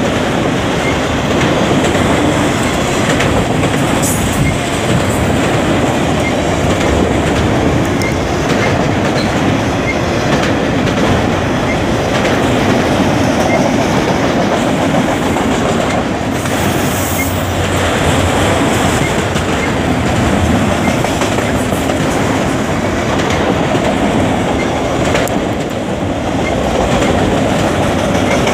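A freight train's autorack cars rolling steadily past at close range: a loud, continuous noise of steel wheels running on the rails.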